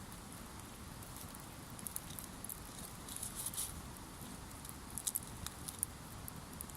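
Wood campfire crackling: irregular small snaps and pops over a low steady rustle, with a few sharper snaps about five seconds in.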